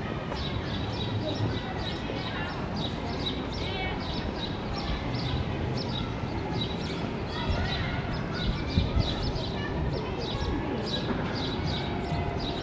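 Birds chirping over and over, short high chirps several a second, over a steady background of street noise and distant voices.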